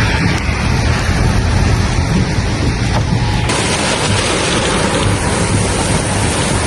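Heavy thunderstorm rain with wind on the microphone and a deep low rumble. About halfway through, the sound switches abruptly to a brighter, steady hiss of downpour.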